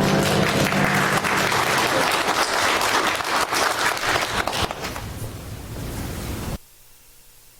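Congregation applauding after a piece of music, whose last chord fades out in the first second or so; the applause thins out and then cuts off abruptly about a second before the end.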